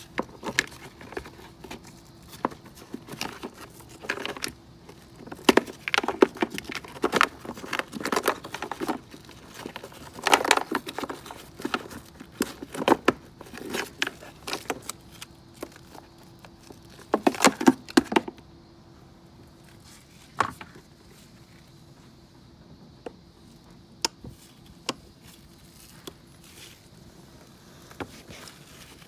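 Hand work on a scooter during a battery change: irregular clicks, knocks and rustling as tools and parts are handled. Busy for most of the first two-thirds, then only an occasional click.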